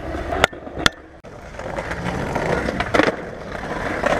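Skateboard wheels rolling, with sharp clacks of the board. Two come about half a second and a second in, and a louder one about three seconds in, as a skater attempts a trick.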